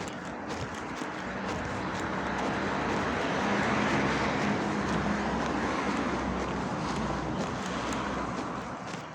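A motor vehicle passes by: its engine and tyre noise grow louder to a peak about four seconds in, then slowly fade away.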